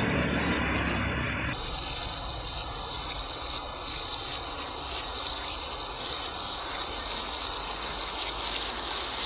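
Heavy rain pouring steadily onto a wet tiled patio and plants, a continuous hiss. It is louder and fuller for the first second and a half, then settles at a lower steady level.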